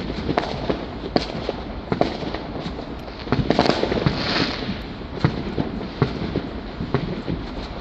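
Bonfire Night fireworks going off all around: many overlapping bangs and pops at irregular intervals. A louder run of crackling comes about three and a half seconds in.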